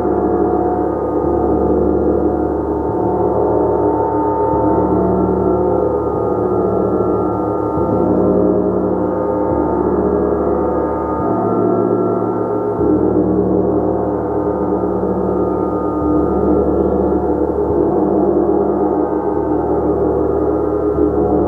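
Gong played continuously: a dense, sustained wash of many overlapping ringing tones at a steady level.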